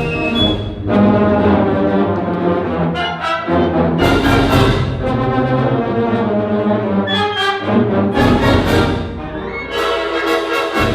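Orchestral music with prominent brass, sustained chords moving from phrase to phrase.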